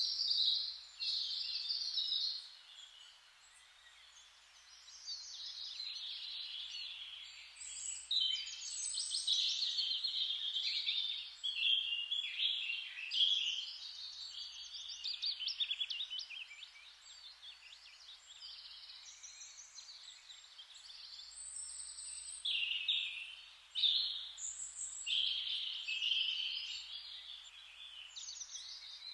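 Several songbirds singing and chirping over one another in a steady chorus, with a soft hiss beneath and a brief lull a few seconds in.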